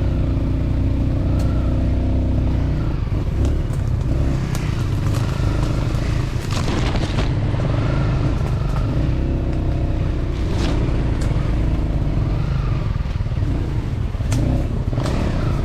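Dirt-bike engine running steadily under way, its pitch shifting now and then with the throttle, with a few short knocks about a third and two thirds of the way through.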